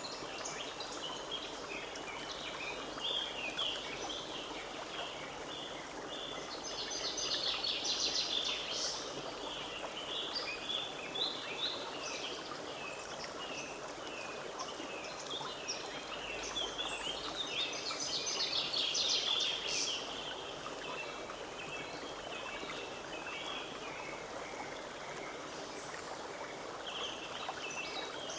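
Forest stream babbling steadily, with many small birds chirping and singing over it; the birdsong comes in two busier flurries, about a quarter of the way in and again about two-thirds through.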